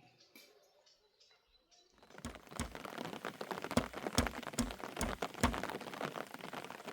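Rain starts about two seconds in: a dense patter with heavy drops knocking on a surface close by, easing off slightly toward the end.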